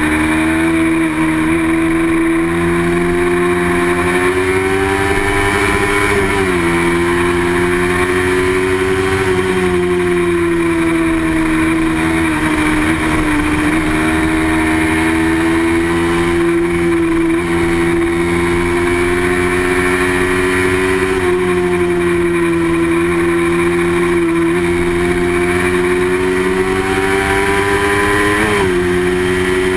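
Small-displacement racing motorcycle engine running hard at high revs, its pitch rising and falling slowly. The pitch drops sharply twice, about six seconds in and near the end.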